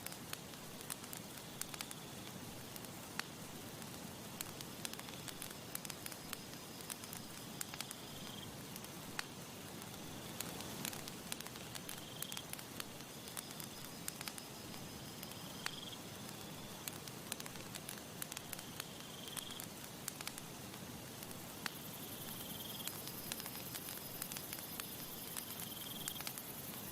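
Campfire crackling, with frequent sharp pops and snaps over a steady soft hiss. A short high chirp repeats about every three to four seconds.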